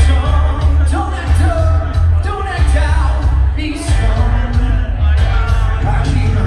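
Live amplified band playing a rock-style musical-theatre song with heavy bass and a steady beat, and a man's voice singing over it.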